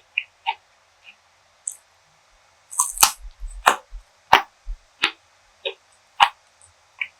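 Close-miked eating sounds: a person chewing food, with a series of short, sharp wet clicks and smacks from the mouth, sparse at first and coming thicker and louder partway through.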